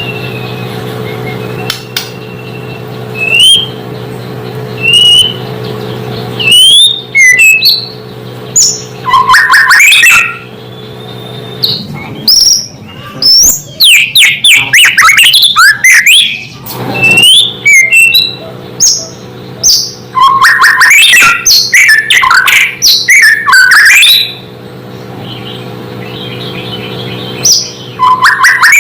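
White-rumped shama (murai batu) singing: a few clear sliding whistles at first, then long spells of loud, fast, varied phrases and rapid trills. A steady low hum runs underneath at the start and again near the end.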